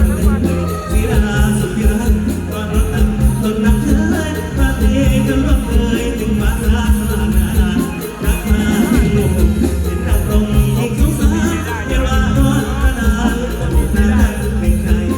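Mor lam band music played live: a singing voice over heavy bass and a steady, driving drum beat.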